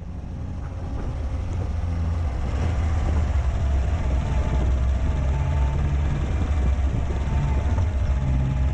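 A heavy vehicle's engine running with a deep, steady low rumble, fading in over the first few seconds and then holding steady.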